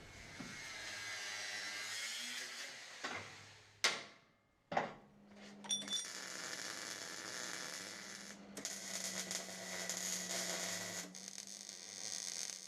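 Hand-tool work on a car's front suspension while the control arms are unbolted: ratcheting and scraping metal, two sharp knocks about four seconds in, then a steady low hum under the work.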